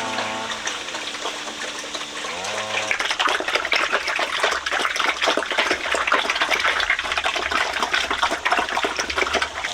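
Water gushing and splashing in a steady rush that starts about three seconds in. Before it comes a humming tone that shifts pitch.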